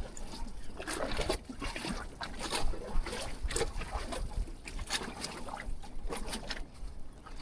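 Small wind-driven waves slapping and sloshing against the jetty in irregular splashes, with wind rumbling on the microphone.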